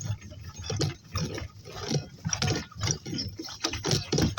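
Donkeys walking along, their hooves plodding about two to three times a second, mixed with mechanical rattling and clinking.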